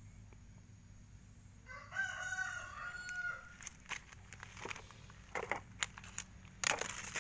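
A rooster crows once, about two seconds in. It is followed by a run of sharp clicks and knocks, the loudest near the end.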